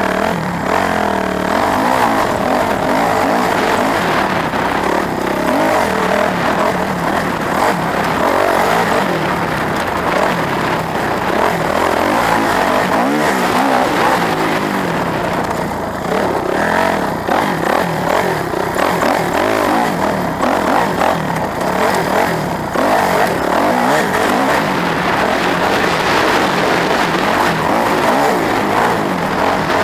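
Vehicle engines running and revving, their pitch rising and falling over and over.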